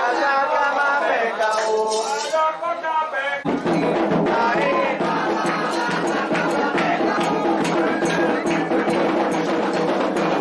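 Candomblé ritual chant sung by voices, with drums and a struck percussion part coming in suddenly about three and a half seconds in and keeping a dense beat under the singing.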